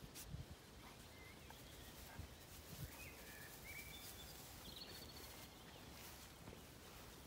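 Near silence: a few faint bird chirps about two to five seconds in, over a low steady rumble.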